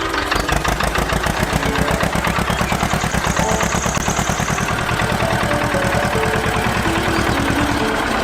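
An engine running steadily with a fast, even chugging, over background music with a melody.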